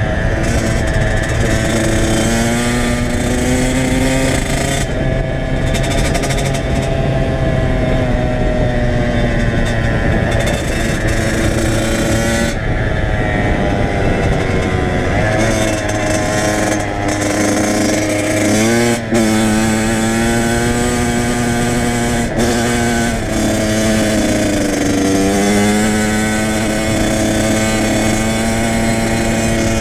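Kawasaki KX100 two-stroke dirt bike engine running under way, its pitch rising and falling again and again with throttle and gear changes, with a quick sharp rev about two-thirds of the way through.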